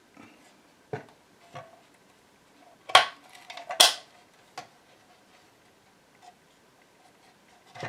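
Small metal parts and tools being handled and set down on a workbench: a handful of separate clinks and knocks, some with a short metallic ring. The two loudest come about three and four seconds in.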